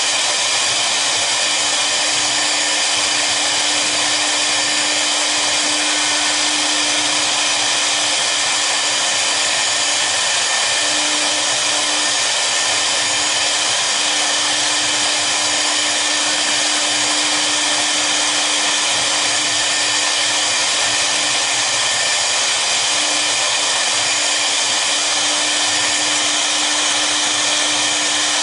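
Spindles of a double-head CNC router running steadily while the machine cuts a job: an even, unbroken noise with a few steady tones.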